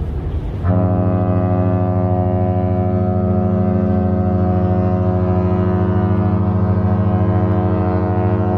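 Cruise ferry Viking Glory's ship horn sounding one long, deep, steady blast that opens with a brief rush of air before the tone settles.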